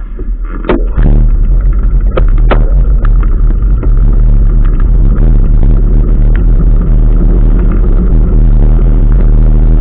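A few sharp knocks in the first few seconds, then from about a second in a loud steady rumble and rush of wind and road noise on the microphone of a bicycle being ridden.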